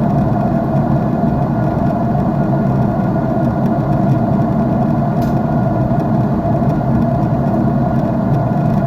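Jet airliner cabin noise in flight, heard at a window seat: a steady, even drone of the engines and rushing air, low and unchanging, with a faint tick a little past the middle.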